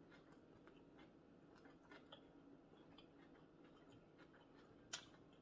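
Faint chewing with scattered small mouth clicks, and one sharper click near the end.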